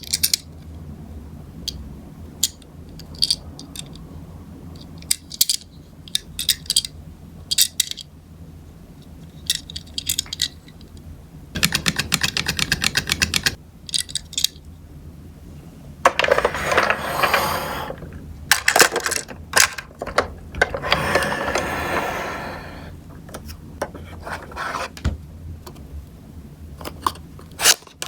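Die-cast Tomica minicars clicking and clacking against a plastic toy car transporter as they are handled and loaded. Scattered sharp clicks, a fast even run of rattling clicks lasting about two seconds near the middle, and two longer stretches of rattling and scraping later on.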